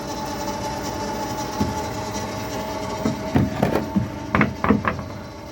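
Electric Yacht 10.0 electric sailboat motor running at about 1000 RPM with a steady, even whine and no rough noises, a sign it is running well. Several short knocks and clatters come between about three and five seconds in.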